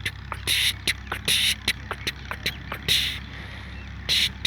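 Birds giving short, harsh, rasping calls and sharp clicks several times a second, over a steady low hum.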